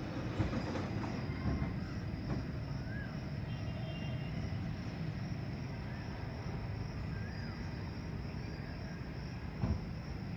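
Steady low machinery rumble from an adjacent automobile workshop, with a few short knocks and a constant thin high-pitched tone over it.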